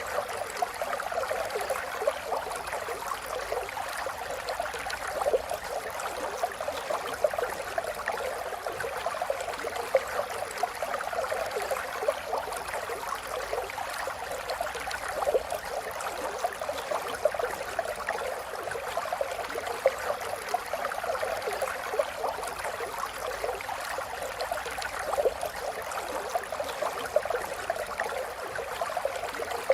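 A river flowing: a steady, even wash of running water with fine, constant splashing.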